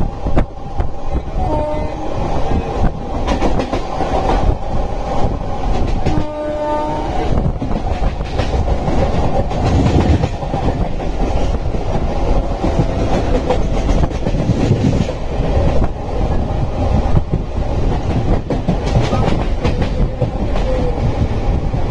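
Train running along the track, heard from on board: a steady rumble of wheels on rails with clattering over the rail joints. A brief horn sounds about six seconds in.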